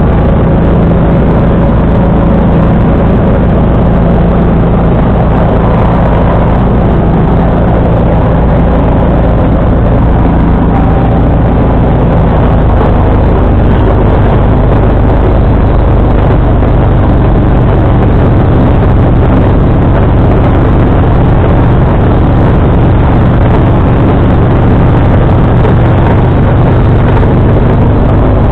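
John Deere 445 lawn tractor engine running loud and steady while driving its 47-inch snowblower. About twelve seconds in, the engine note settles a little lower.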